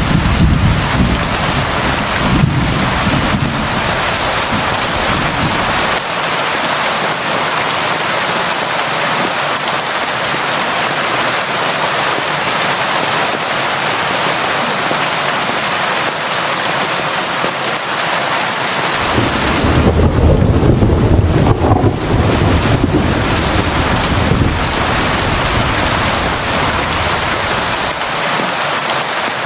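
Steady, constant rain, with low rumbles of thunder in the first few seconds and again for a few seconds about twenty seconds in.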